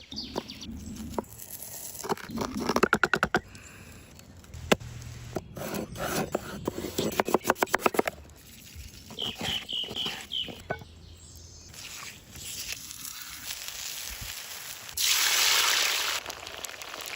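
Camp-cooking sounds: several runs of fast, rapid knife chops on a board, and about a second and a half from the end a loud burst of sizzling, typical of food going into hot oil.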